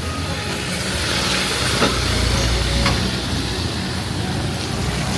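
Steady heavy rain with a motor vehicle passing on the wet road: its engine rumbles and its tyres hiss, swelling about one to three seconds in.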